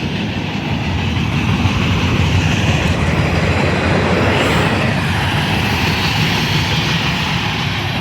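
CSX freight train cars rolling past close by: a loud, steady rumble with the wheels clacking over the rail joints.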